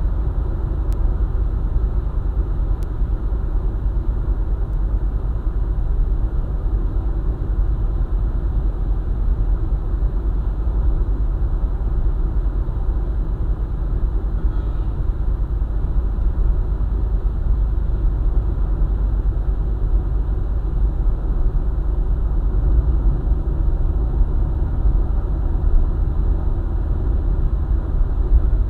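Car driving along a highway: a steady low rumble of road and engine noise that does not change.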